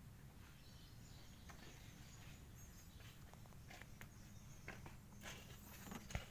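Near silence: faint steady low background hum, with a few light clicks.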